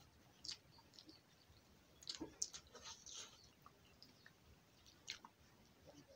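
Faint eating sounds of a person chewing a handful of rice and fish, with scattered short wet smacks and clicks, a cluster of them about two to three seconds in.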